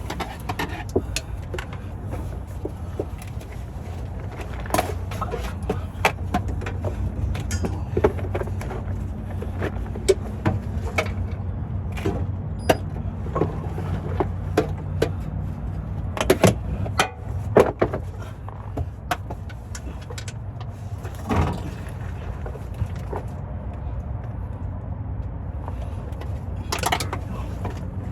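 Hand tools clinking and clicking irregularly on metal under a vehicle, over a steady low hum.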